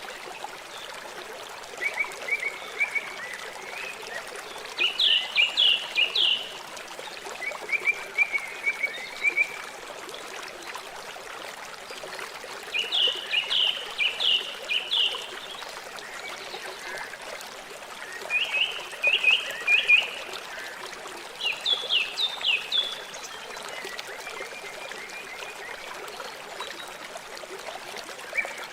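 Steady rush of a flowing river. Over it, an animal calls again and again in short runs of four to six quick, high, sharp notes, a few seconds apart.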